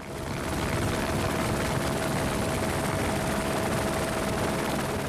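Helicopter rotor and engine noise, steady and loud, with a constant whine running through it.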